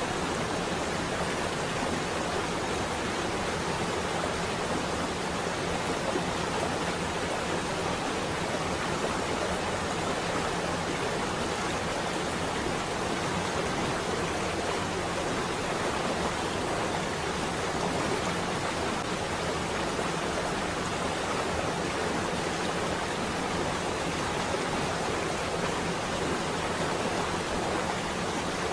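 Heavy rain falling on a window, a dense, even hiss with no thunder.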